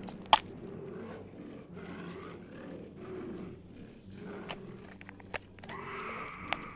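Horror sound effect of low, rough growling and grunting, broken by sharp cracks, the loudest just after the start, with a short hiss near the end.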